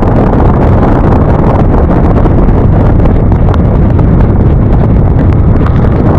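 Loud, steady wind noise on the microphone of a rider on a moving motor scooter, with road and vehicle noise underneath.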